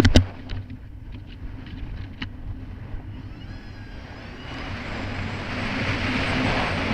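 Kawasaki Ultra 300X jet ski's supercharged four-cylinder engine running steadily under the water rush. A couple of loud, sharp thumps come right at the start, with smaller knocks over the next two seconds. From about four seconds in, a rush of wind and water noise builds and grows louder.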